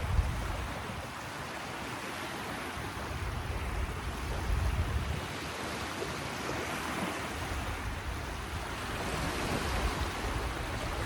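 Ocean waves washing ashore in a steady wash of surf that swells and eases every few seconds, with low wind rumble on the microphone.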